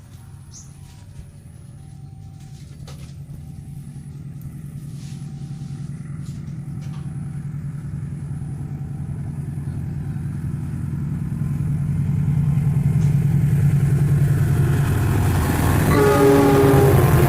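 Diesel locomotive approaching, its low engine drone growing steadily louder, with a short horn blast near the end. A faint repeating warning tone sounds through the first half, typical of a level-crossing signal.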